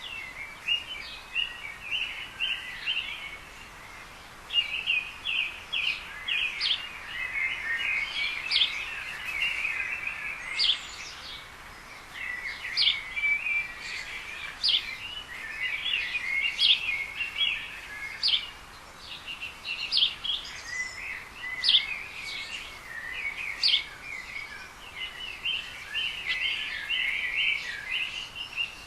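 Small birds chirping and twittering steadily, a dense run of short, high notes with some sharper single chirps standing out.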